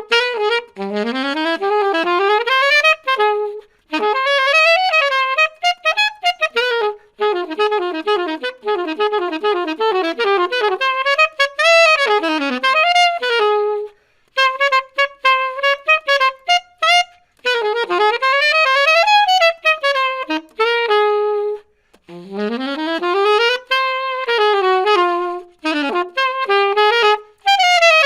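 Solo alto saxophone playing a flowing melodic line with quick runs and swooping rises and falls, in phrases broken by short breaths.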